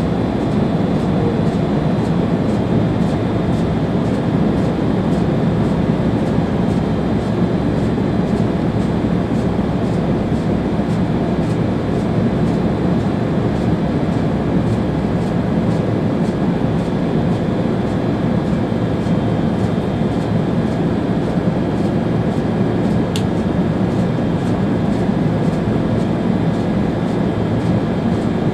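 Steady running noise of an ÖBB Railjet high-speed train heard from the driver's cab at speed: a constant low rumble of wheels on rail and air rush, with one brief high tick late on.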